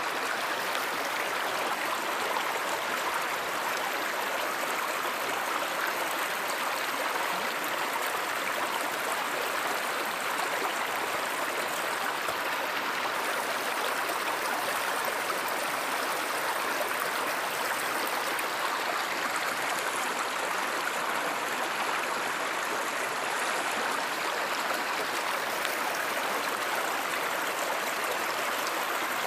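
Stream water flowing steadily, an even, unbroken running-water sound.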